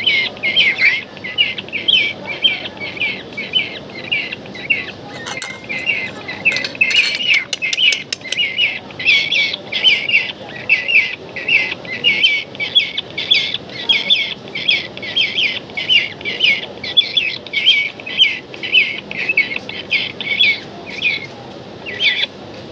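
A kingfisher chick calling over and over, about three short calls a second: begging calls while it is being hand-fed. A few sharp clicks sound about six seconds in, and the calling stops about a second before the end.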